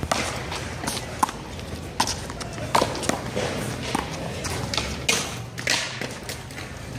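A one-wall handball rally: a small rubber ball slapping sharply and irregularly off players' hands, the wall and the court, about a dozen smacks spaced a fraction of a second to a second apart.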